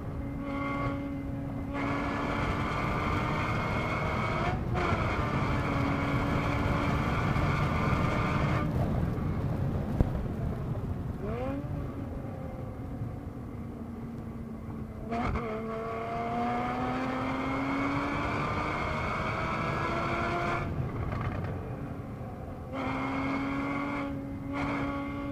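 Porsche Boxster S (981) 3.4-litre flat-six heard from inside the cabin at track speed. The engine note rises under acceleration and drops each time the driver lifts for corners, with a downshift from fourth to third. There is a sharp click about ten seconds in.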